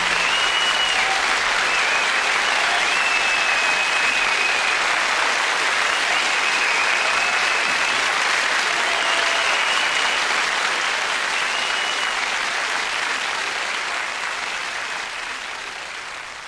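Studio audience applauding, the applause fading out towards the end.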